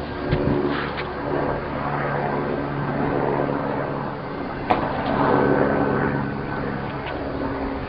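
An engine running steadily with a constant hum, and a single sharp click a little past halfway.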